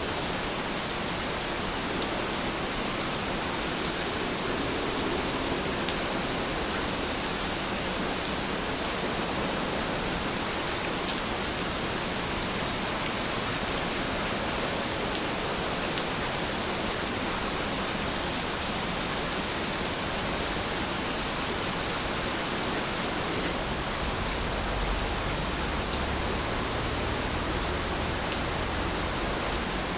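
Steady rain falling, an even hiss of many drops with no single sound standing out. A faint low rumble comes in near the end.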